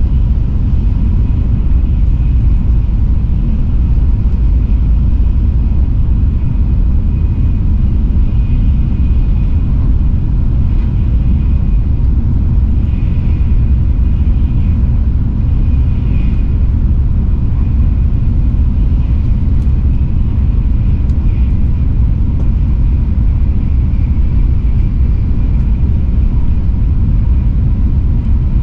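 Steady, loud low rumble of a Shinkansen bullet train running at speed, heard from inside the passenger cabin, with a faint steady whine above it.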